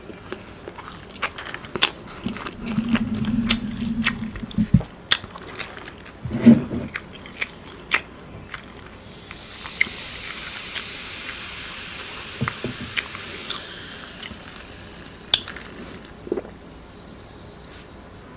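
Close-miked chewing with wet mouth clicks and smacks, with a low hum about three seconds in. About halfway through, soda is poured from a can into a glass of ice and fizzes for about six seconds.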